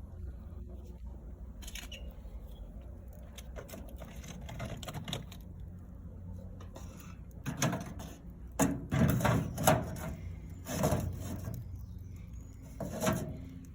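Firewood being handled in a fireplace: scattered light clicks, then several loud bunches of wooden knocking and scraping in the second half, over a low steady hum.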